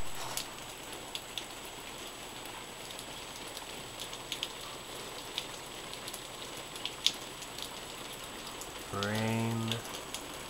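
Rain falling steadily, with scattered drops ticking sharply here and there. Near the end, a brief low voice sounds for under a second.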